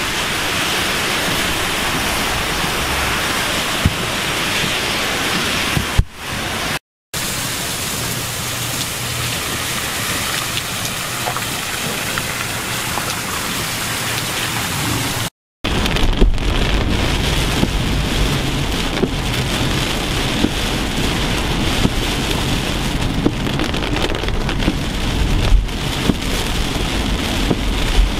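Heavy tropical downpour in strong wind, a steady rush of rain, broken by two brief silent cuts about 7 and 15 seconds in. After the second cut the rain drums on a moving car's windshield over a low rumble from the car and wind.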